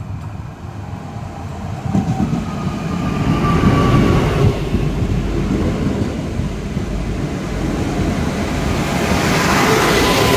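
Newag EN63H hybrid multiple unit running into the platform close by and braking to a stop, its wheels and running gear rumbling as it passes. A thin whine rises over the rumble about two seconds in and again near the end.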